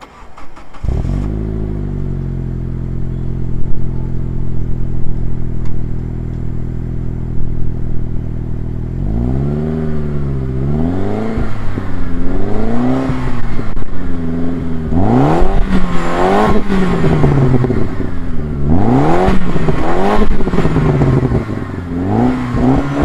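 Saab 9-3 Aero's 2.0-litre turbocharged four-cylinder engine starts about a second in and settles into a steady idle. From about nine seconds in it is revved again and again in short throttle blips, the pitch rising and falling with each one, heard from the exhaust.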